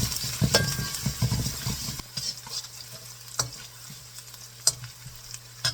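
Garlic and whole red chilies sizzling in hot oil while being stirred, with utensil knocks and scraping against the pan. The stirring is busiest for the first two seconds, then the sizzle goes on more quietly with a few sharp clicks.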